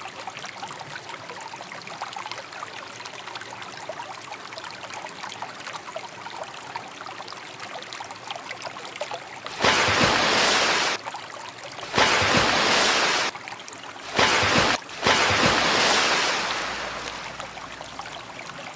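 Running water: a faint steady trickle, then from about halfway four loud spells of rushing water that start and stop abruptly, the last one fading away.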